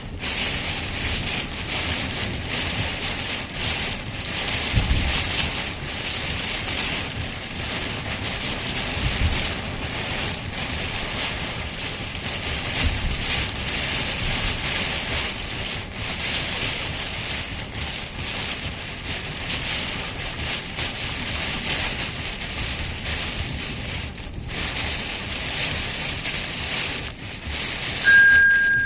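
Heavy rain pouring steadily. A short, steady high tone sounds briefly near the end.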